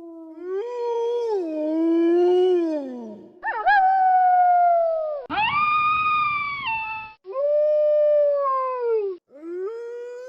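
Wolves howling: about five long howls in a row, one after another, each rising and then sliding down in pitch.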